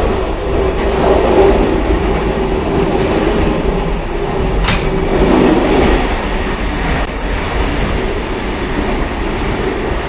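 A railcar running along the track with a steady rumble and a held tone. A single sharp click comes about halfway through.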